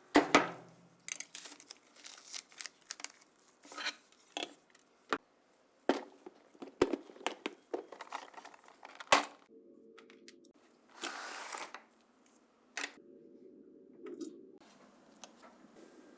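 Hand work at a bench: a run of light clicks, taps and crinkling rustles, with one longer tearing sound lasting about a second near eleven seconds in.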